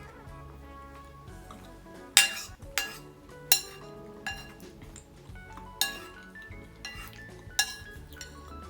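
Metal cutlery clinking against a plate while eating, about five sharp clinks with a short ring, over light background music.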